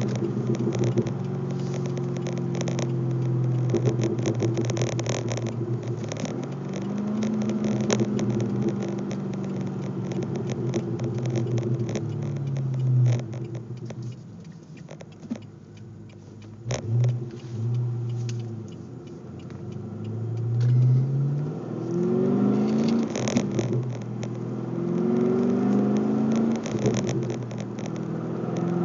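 Pontiac G8 GXP's LS3 V8 through an SLP Loudmouth axle-back exhaust, heard from inside the cabin while driving. The engine note climbs and drops as it is revved and shifted, goes quieter for a couple of seconds around the middle, then climbs again in several short pulls near the end.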